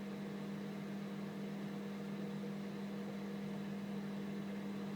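Microwave oven running with a steady hum and fan noise while it cooks pancake batter.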